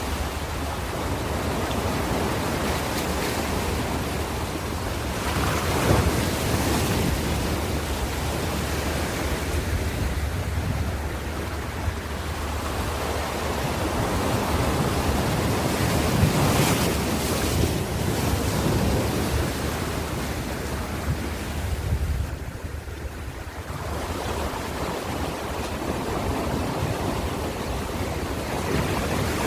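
Ocean surf: waves breaking and washing in as a continuous rush, swelling louder about six seconds in and again around sixteen to eighteen seconds, with a brief lull a few seconds later. A steady low wind rumble runs underneath.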